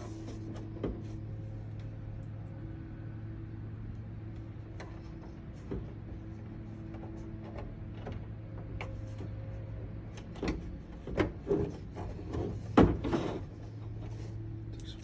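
Plastic diorama parts being handled and fitted together: scattered light clicks, then a run of louder knocks and scrapes from about ten to thirteen seconds in, over a steady low hum.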